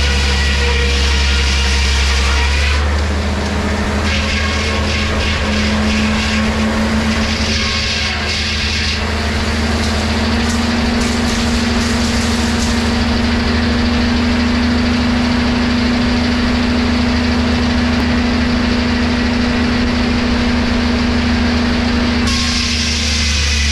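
Engine-driven wood-cutting machinery running steadily. From about three seconds in until near the end it sounds different, with a steady whine on top: a board is going through the cut under load.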